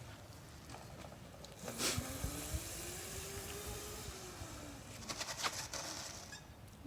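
A faint motor hum whose pitch rises slowly and then falls over about three seconds, with a few scattered clicks.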